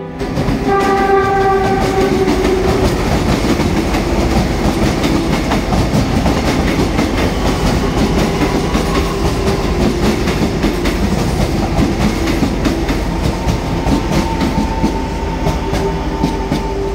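Taiwan Railways EMU800 local commuter train sounding a chord horn for about two seconds, just after the start. It then runs past, wheels clattering over the rail joints with a steady rumble.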